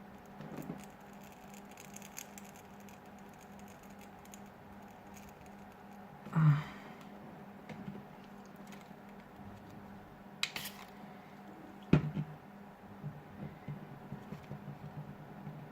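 Small tools and phone parts handled on a work surface: scattered light clicks and taps, a louder knock about six and a half seconds in and a sharp click about twelve seconds in, over a steady low hum.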